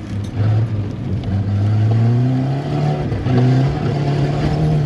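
Volvo 740 Turbo's turbocharged four-cylinder engine pulling hard under acceleration, its pitch rising steadily, dipping briefly about three seconds in, then climbing again.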